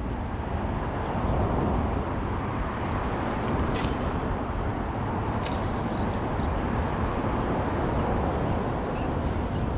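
Steady hum of road traffic, with two short clicks about four and five and a half seconds in.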